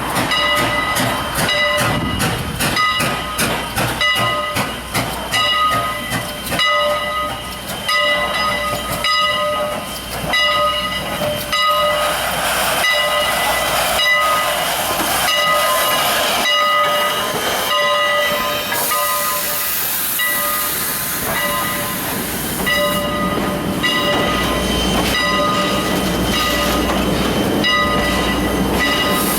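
A steam locomotive's bell rings steadily, struck a little more than once a second, as the train moves, with clicking wheels over the rail joints in the first part. A burst of steam hiss comes about two-thirds of the way through.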